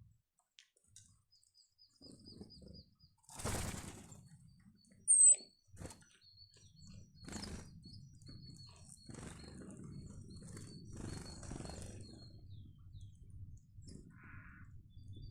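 Small wild birds at a snowy garden feeder: a short high trill, then a long run of thin high call notes, with one sharp, loud chirp about five seconds in. Short rustling bursts, the biggest about three and a half seconds in, sound among them, over a faint low rustle in the second half.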